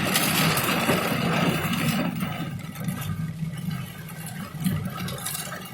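Rain falling, a dense hiss that drops sharply about two seconds in to a lighter patter with scattered drips, over a steady low hum.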